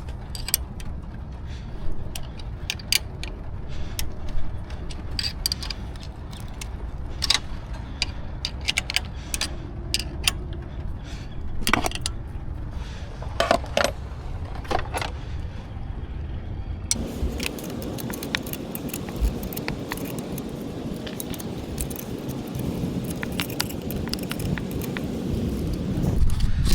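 Repeated light metallic clinks and taps, like tools and small metal parts being handled, then from about two-thirds in a steady rushing noise with only a few clinks over it.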